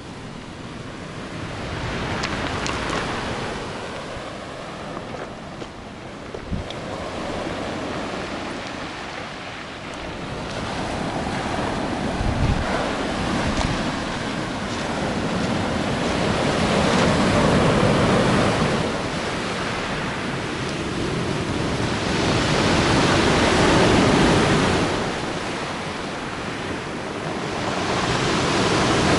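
Sea surf on the Black Sea shore: waves breaking and washing up the beach in slow swells every few seconds, growing louder in the second half, with some wind on the microphone.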